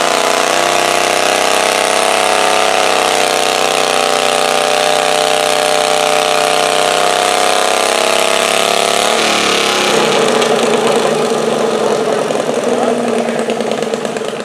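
Pulling garden tractor engine running at high revs, its pitch holding steady and wavering slightly. About nine seconds in the pitch drops sharply, and the engine runs on at lower, rougher revs.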